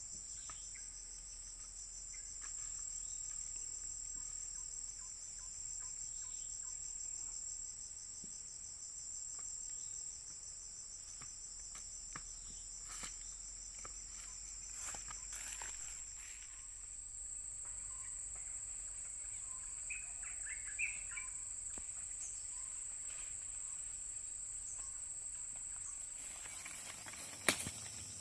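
Insect chorus: a steady, high-pitched trilling with a fine pulse, with a few faint ticks and brief faint chirps.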